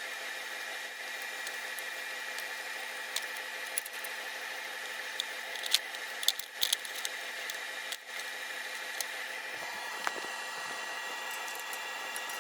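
A small electric motor-driven tool running steadily with a faint whine, with scattered clicks and light knocks over it. The tone shifts a little about ten seconds in.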